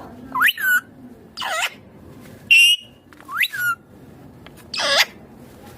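Indian ringneck parakeet giving about five short whistled calls, each a quick glide in pitch, some rising and some dipping then rising, with short pauses between them.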